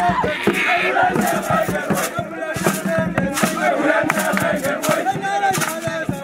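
A crowd of young people chanting and shouting together, many voices at once, with sharp claps or knocks scattered through it.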